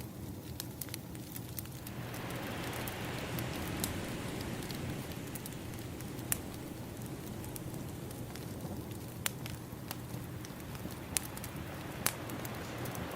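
Wood fire crackling with sharp pops, over ocean waves washing in; a wave swells up about two seconds in and slowly recedes.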